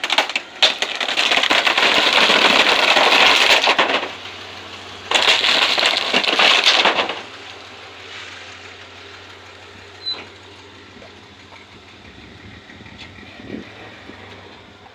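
A truck driving over a 60-inch flat-screen TV: a few sharp cracks at first, then two loud stretches of crunching noise, about three and two seconds long, then a quieter steady rumble.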